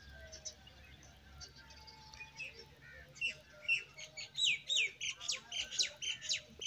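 Small birds chirping in the trees: many quick, downward-sweeping chirps that grow louder and denser about halfway through.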